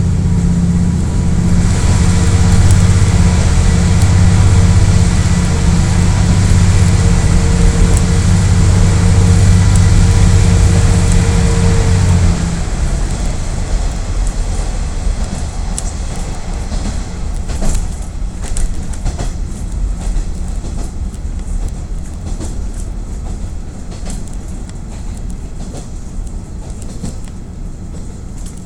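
KiHa 48 diesel railcar's engine running hard under power, then shutting off suddenly about twelve seconds in. After that comes the quieter rumble of the wheels on the rails as the car coasts, with a few sharp clacks.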